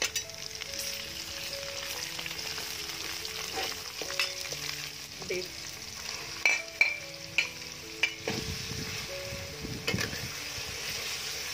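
Chopped garlic and red onion sizzling in hot soybean oil in a metal wok, with a metal spatula clicking and scraping against the pan. About halfway through, sliced beef goes into the wok and the sizzle carries on under a run of sharp knocks.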